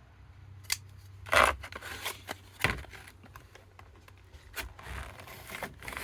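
Scissors cutting open a knife's packaging, several separate snips.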